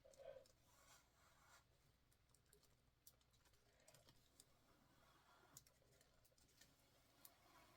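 Near silence: faint room tone with a few soft scattered clicks.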